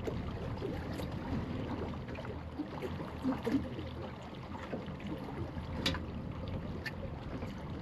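Steady low rumble of wind and water noise aboard a boat, with a sharp click about a second in and another near six seconds in.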